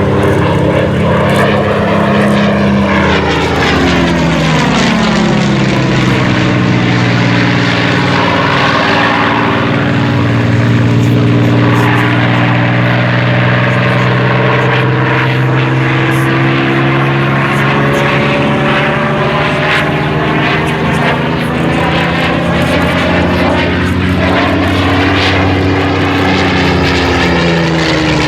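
Rolls-Royce Merlin-engined Spitfire warbirds flying past: a steady piston-engine drone that sweeps down in pitch as each aircraft passes, several times over.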